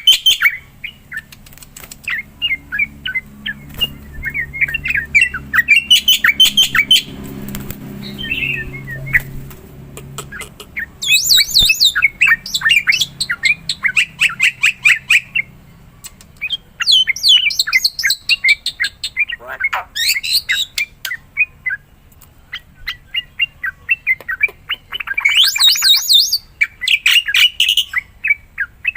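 Black-winged myna (jalak putih) singing hard, in repeated phrases of rapid, harsh chattering and clicking notes with shrill higher notes, broken by pauses of a second or two.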